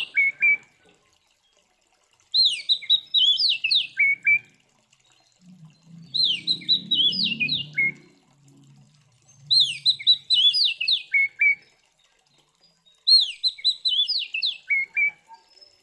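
Oriental magpie-robin (kacer) singing its aggressive fighting song. It repeats the same loud, fast phrase four times, about every three and a half seconds: a run of sharp, high notes that ends on a few lower notes. A low rumble sounds under the second phrase.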